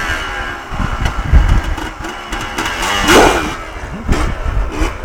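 Yamaha Blaster quad's two-stroke single-cylinder engine revving up and down, with a strong surge about three seconds in.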